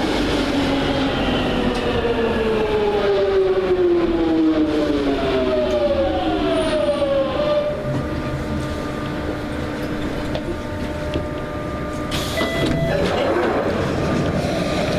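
London Underground Jubilee line train braking into the platform, its traction motor whine falling steadily in pitch for about seven seconds until it stops. It then stands with a steady electrical hum, and a short burst of noise with brief tones comes about twelve seconds in.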